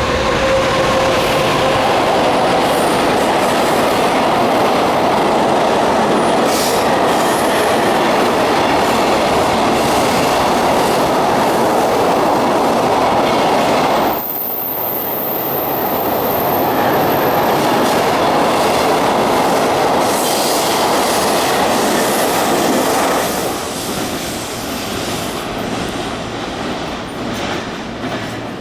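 Freight train hauled by an EF200 electric locomotive passing through a station: a loud, steady rumble and rattle of the wagons going by. The noise dips suddenly about halfway through and eases off over the last few seconds as the end of the train passes.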